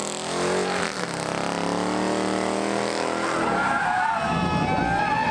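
Car engine at high revs, joined about three seconds in by wavering, high-pitched tire squeal: a car doing a burnout.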